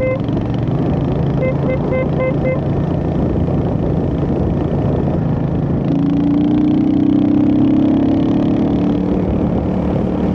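Royal Enfield Hunter 350's single-cylinder engine running on the move under a steady rush of noise, its pitch rising about six seconds in as it pulls harder. A quick series of short electronic beeps sounds at the start and again about two seconds in.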